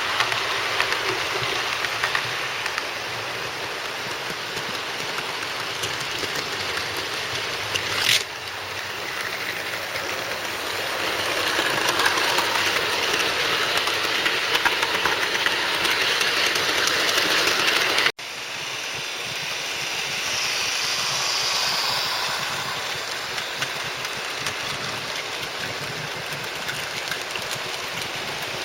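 00 gauge model trains running on the layout, wheels rattling and clicking over the rail joints and points in a steady rattle. The sound breaks off for an instant about 18 seconds in.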